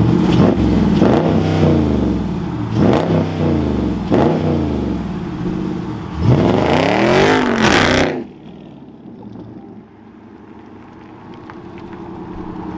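2020 Dodge Charger Scat Pack's 6.4-litre HEMI V8 revved hard several times through an exhaust with carbon tips, the pitch climbing and falling with each rev; the longest rev cuts off suddenly about eight seconds in. A quieter, lower engine sound follows and slowly grows louder.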